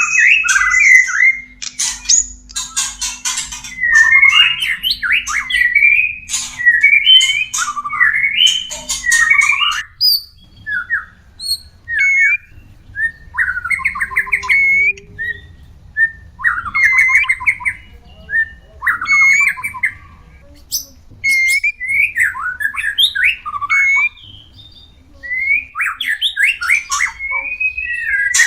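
White-rumped shamas giving mating calls: short harsh notes and clicks mixed with quick warbled, gliding phrases, dense for about the first ten seconds, then sparser phrases with short pauses between them.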